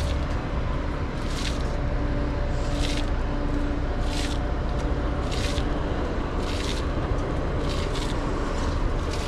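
Semi car-hauler truck engine running steadily. A short hiss repeats about every second and a quarter over it.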